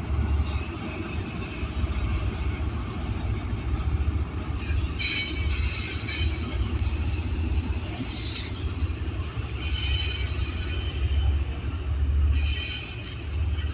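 Norfolk Southern double-stack freight train rolling along the track: a steady low rumble of wheels and cars, with high-pitched steel wheel squeal coming and going, loudest about five and eight seconds in.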